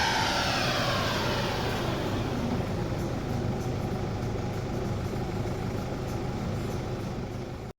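Mercedes C 220 four-cylinder diesel engine with its revs falling steeply from high after a pull, then settling to a steady idle. The sound cuts off abruptly near the end.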